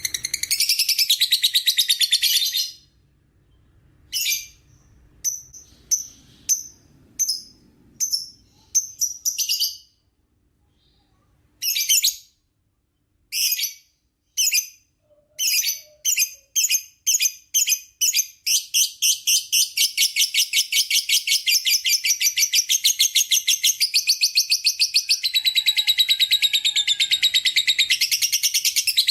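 Lovebird giving its long 'ngekek' chatter. A burst of fast, shrill chatter gives way to a pause and single sharp calls spaced about half a second apart. The calls then quicken from about halfway through into a long, unbroken rapid trill.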